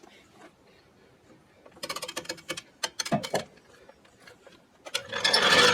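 Workshop handling noise: a run of sharp clicks and knocks of parts and tools, then a louder hissing or rushing burst lasting about a second near the end.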